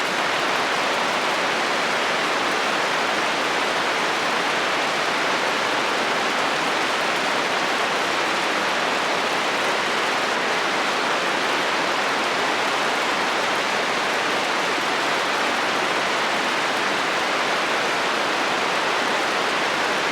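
Heavy rain falling on a metal roof: a steady, even hiss with no breaks or rumbles.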